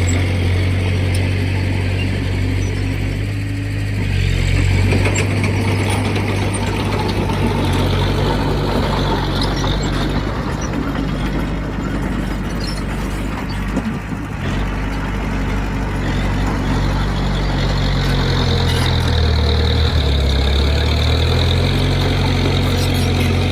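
Heavy diesel engine of earthmoving machinery running steadily at low revs. Its note shifts a little and drops briefly near the end.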